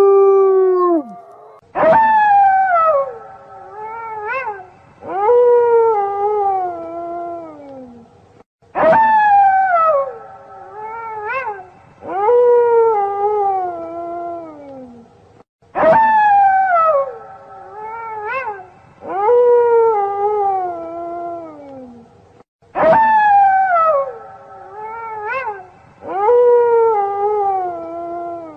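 Wolf howls, each starting sharply and sliding down in pitch, two to a cycle with a brief rising yelp between them. The same sequence repeats about every seven seconds, four times over, as a looped recording.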